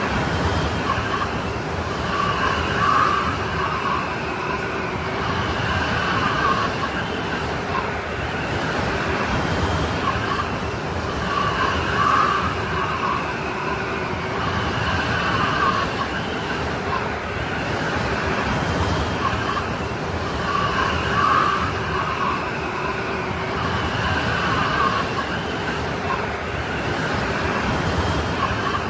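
Strong snowstorm wind blowing steadily, with a whistling howl that swells and fades about every nine seconds.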